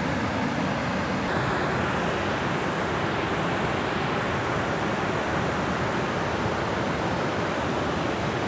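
Steady rushing of water flowing through a dam, an even noise that does not change.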